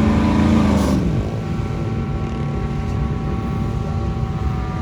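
Off-road 4x4 truck engine working under load, its revs dropping about a second in, then running on steadily with a thin whine over the rumble.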